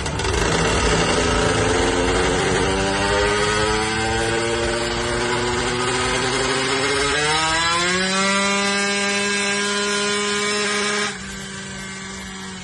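Yamaha DT 180 two-stroke single-cylinder motorcycle engine on a chassis dynamometer during a full-power run. It revs up with a steadily rising pitch, climbs faster about seven seconds in, and holds high. The sound then drops sharply about eleven seconds in and settles to a lower, steady note.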